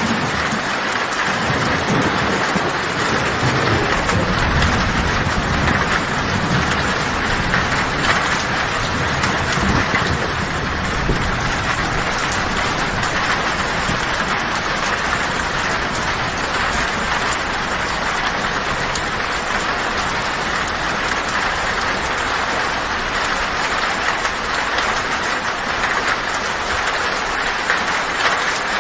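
Heavy rain drumming steadily on a tin roof, with a low thunder rumble through the first ten seconds or so that then dies away.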